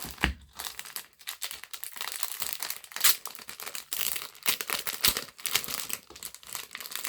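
Plastic or paper packaging being handled and torn open by hand: irregular crinkling and rustling, with a couple of sharper, louder crackles about three and five seconds in.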